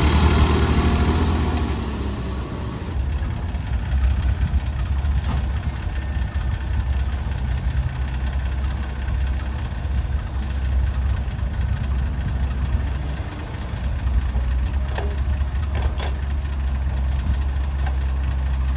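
Diesel engine idling with a steady low throb. It is louder for the first couple of seconds, then settles lower, with a few light clicks later on.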